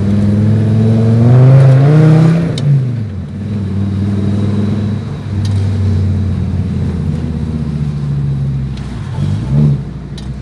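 Fiat Marea 2.4's five-cylinder engine pulling under acceleration, its pitch rising for about two seconds, then dropping off and running steadily at cruise. There is a short rev rise near the end.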